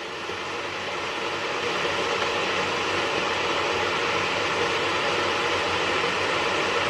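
Stainless-steel electric kettle heating water: a steady rushing hiss that builds a little over the first couple of seconds, then holds.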